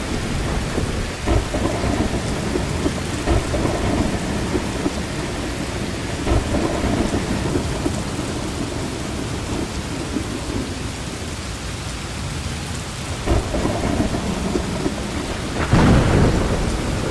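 Heavy rain falling steadily, with low rumbles of thunder swelling through it; the loudest rumble comes near the end.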